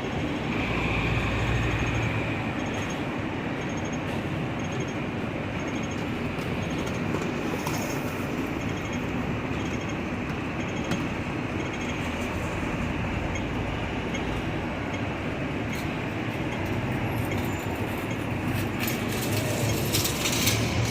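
Hong Kong double-decker electric tram running along its street track with traffic around it: a steady rumble and rolling noise, with a brief high squeal about a second in.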